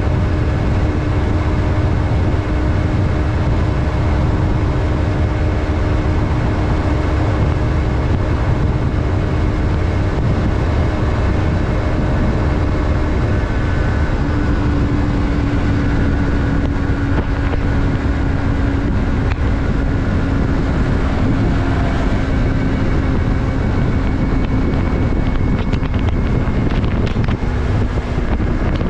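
Yamaha MT-03's 321 cc parallel-twin engine running at a steady cruise, with heavy wind rumble on the microphone. The engine note eases down slightly about halfway through and again near the end.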